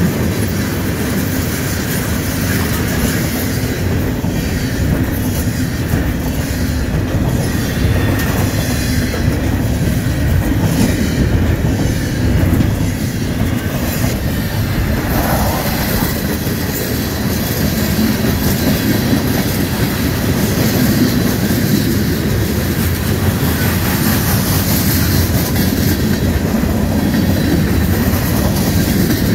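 Freight train cars, covered hoppers and double-stack container well cars, rolling past at speed: a steady, loud rumble of steel wheels on rail with the clickety-clack of wheels passing over rail joints.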